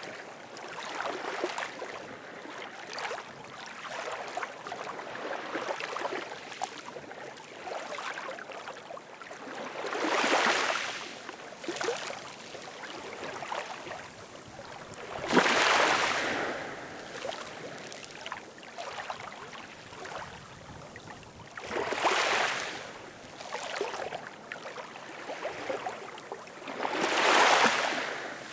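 Ocean waves washing ashore: a steady wash of water, with four larger waves surging in and fading back at intervals of about five to six seconds.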